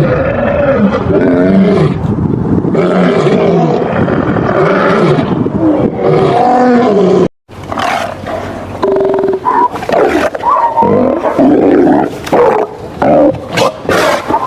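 Big cat growling and roaring in one continuous stretch of about seven seconds. After a short break comes a second run of shorter, broken animal calls and grunts.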